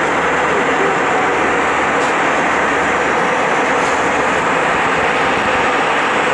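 Steady cabin noise of an Airbus A320 in flight: the even rush of air and engine noise heard inside the passenger cabin.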